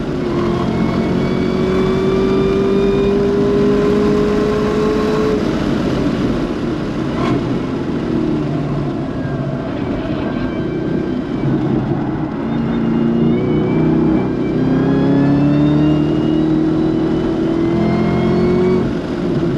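Chevrolet Camaro ZL1 1LE's supercharged 6.2-litre V8 running hard on track, heard from inside the cabin over road noise. Its pitch climbs steadily for about five seconds, falls away, wavers through the middle, then climbs again before dropping just before the end.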